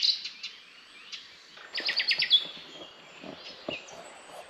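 Songbirds singing in trees: a quick run of sharp repeated notes about two seconds in, ending in a single falling note, with softer chirps around it.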